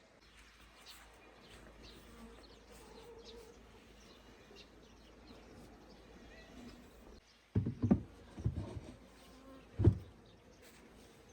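Insects buzzing faintly and steadily. About two-thirds of the way in, this gives way to a few loud, deep thumps.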